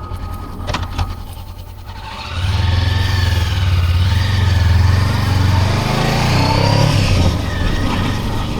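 Motorcycle engine idling, then about two seconds in it pulls away and gets louder, the engine note rising and falling as the revs change.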